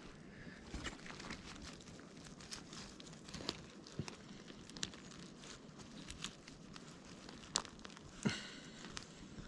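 Footsteps and rustling through wet forest litter, with scattered sharp clicks and crackles, the loudest about three and a half seconds in and again near the end.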